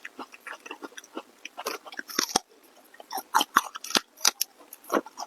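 Close-miked chewing and biting of food, a quick irregular run of crunchy bites and wet mouth clicks, with a short pause about halfway through.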